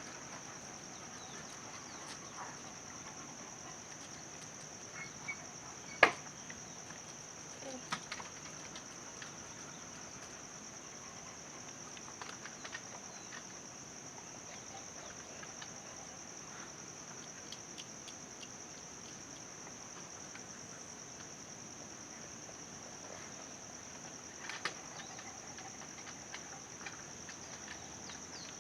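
Steady, high-pitched chirring of insects, with a few faint clicks and one sharp click about six seconds in.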